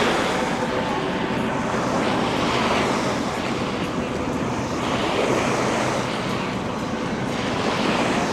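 Ocean surf washing ashore in slow swells, with wind on the microphone and a faint steady engine drone underneath.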